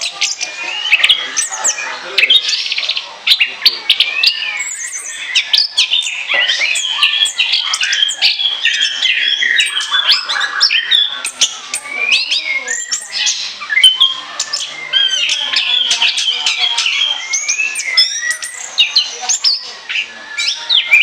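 Orange-headed thrush singing continuously: a fast, varied run of chirps, whistled glides and short sharp notes with no pauses.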